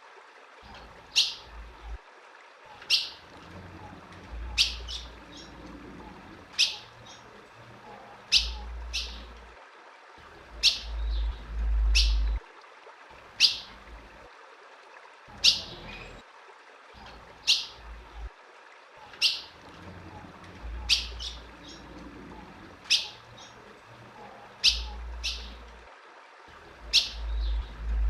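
Female ultramarine grosbeak (azulão) giving short, sharp chip calls, one every one to two seconds, sometimes two close together.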